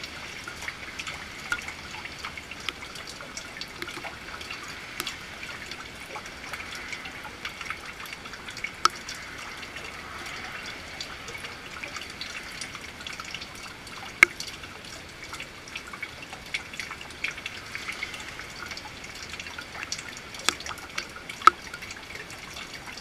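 Steady rain falling, with a constant hiss and irregular sharp drips and splats throughout.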